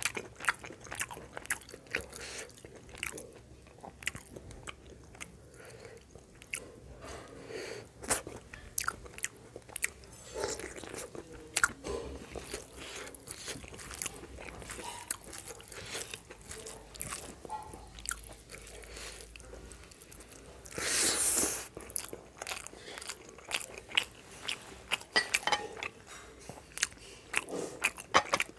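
Close-miked chewing of rice and curry eaten by hand: wet mouth clicks and smacks with some crunching, uneven throughout. About three-quarters of the way through comes one louder, longer burst of noise.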